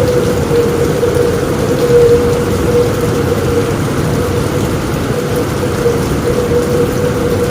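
Steady heavy rain drumming on a roof, with a low thunder rumble underneath and a steady wavering hum throughout.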